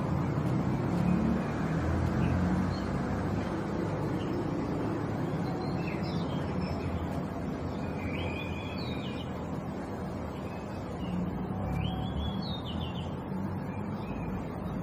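A bird giving short chirping calls, several in a row from about halfway in, over a steady low rumble.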